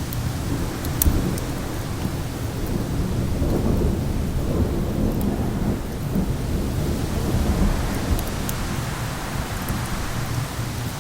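Low rolling thunder over steady rain-and-wind noise, the rumble swelling in the middle. A few sharp pops of a crackling fire sit on top, one near the start and one later on.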